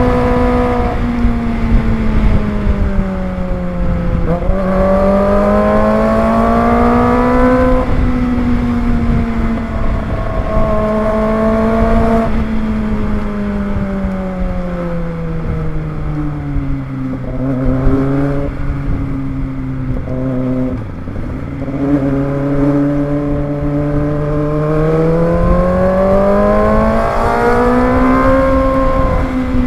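Kawasaki ZX25R's 250 cc inline-four engine under way, its pitch climbing and dropping several times as the rider accelerates and eases off.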